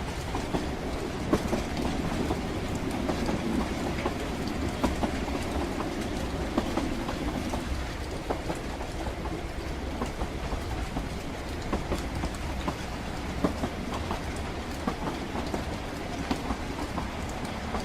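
Train running along the rails: a steady low rumble with irregular clicks and knocks from the wheels over the track.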